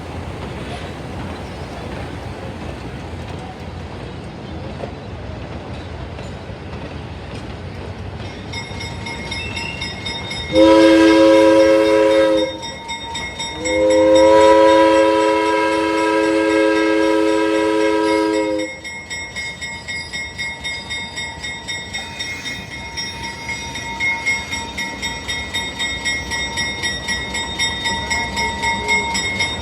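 Train running with a steady rumble, then the locomotive's whistle sounds a chord of several tones twice, a blast of about two seconds and then one of about five seconds, roughly halfway through. After that a bell keeps ringing about twice a second.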